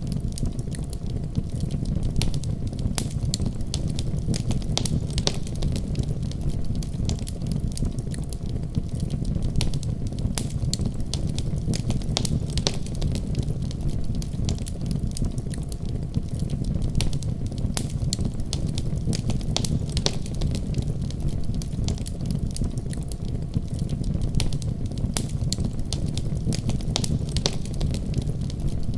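Wood fire crackling, with frequent irregular sharp pops and snaps over a steady low rumble of flames.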